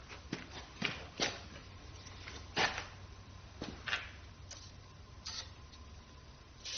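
Irregular light clicks and knocks, about nine of them with the loudest about two and a half seconds in, from hand work on a Ford 351 Windsor V8 block during camshaft and lifter removal. A faint steady high tone runs underneath.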